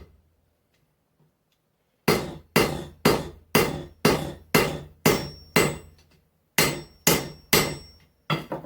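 Hand hammer blows on hot mild steel bar on an anvil, setting two shoulders where the axe eye will be bent. About two seconds in, a steady run of eight strikes comes about two a second, some with a short metallic ring. After a brief pause, three more strikes follow, with one more near the end.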